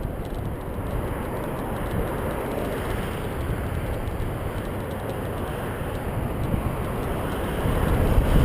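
Steady rushing wind noise on a GoPro microphone while riding a bicycle, growing a little louder near the end.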